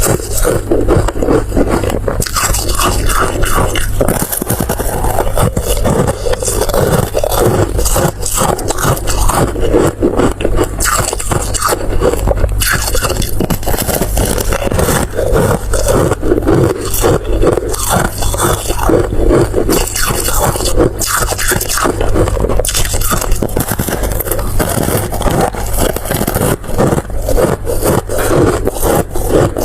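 Close-miked eating: continuous crunching and chewing, a dense crackle of small cracks and scrapes with no pauses, over a steady low hum.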